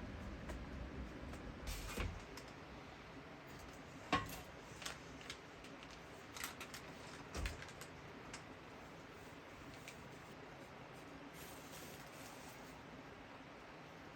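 Scattered light clicks and knocks of small objects being handled, the sharpest about four seconds in, over a faint steady background.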